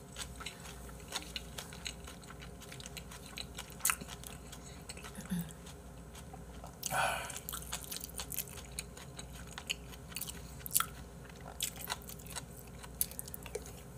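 Close-miked eating: a man chewing a spoonful of braised-monkfish bibimbap, with many small clicks of the mouth and spoon and one brief louder noise about seven seconds in.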